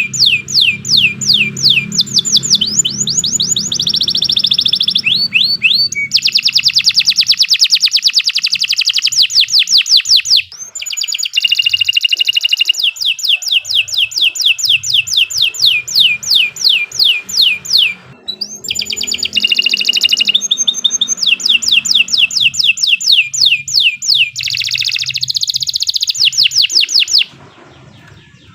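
Domestic canary singing a long, continuous song built from rapid trills of repeated sweeping notes, switching from one trill to the next. There are brief breaks about ten and eighteen seconds in, and the song stops shortly before the end.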